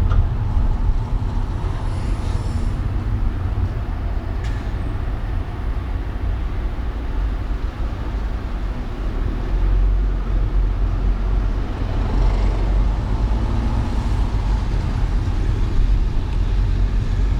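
City traffic and road noise from a moving car: a steady low rumble, with a short hiss about two seconds in and a sharp click about four and a half seconds in.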